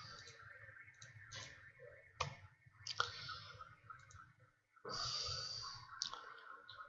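Scattered soft computer mouse clicks, with about a second of rustling hiss near the middle.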